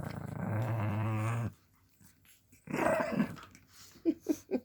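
Dog play-growling in a tug-of-war game: one long low growl lasting about a second and a half, a second shorter growl a little later, then a few brief high squeaks near the end.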